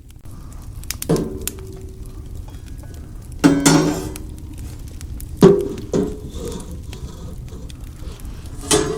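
Metal cookware being handled: five clanks, spread out, each ringing briefly. The second and fourth are the loudest.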